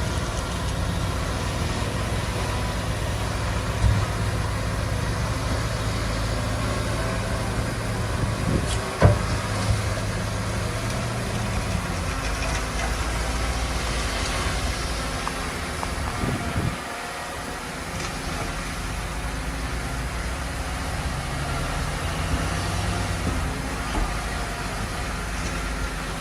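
Heavy earthmoving machinery engine running steadily, with a single sharp knock about nine seconds in. The low engine note drops away about seventeen seconds in, then picks up again.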